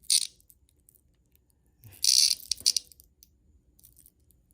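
A handheld cicada giving harsh, loud buzzing squawks, the distress call of a captured cicada: a short burst at the very start and a longer one about two seconds in.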